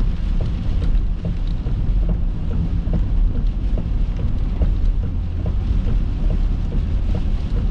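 Steady low road and engine rumble inside a moving car, with a few faint ticks scattered through it.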